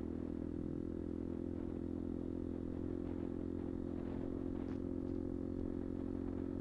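Kuba Black Cat motorcycle engine running steadily at an unchanging engine speed.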